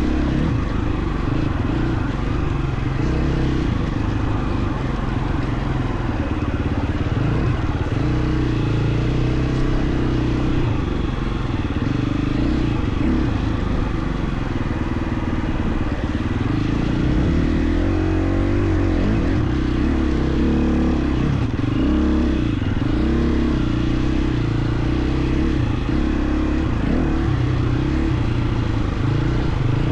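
KTM 350 XC-F dirt bike's single-cylinder four-stroke engine running continuously on a trail ride, its pitch rising and falling with throttle and gear changes, with one clear rev up and back down about two-thirds of the way through.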